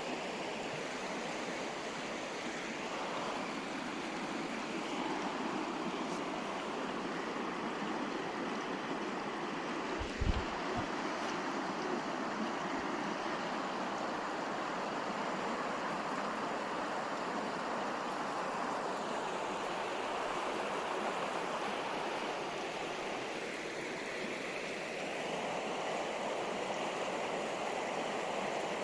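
River water rushing and babbling steadily, with one brief low thump about ten seconds in.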